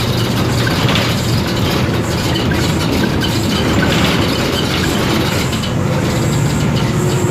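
Isobus City 1200 city bus under way, heard from inside: its MAN D0836 diesel and ZF automatic drivetrain running steadily, with a constant low hum and the small rattles of loose interior parts over the road noise.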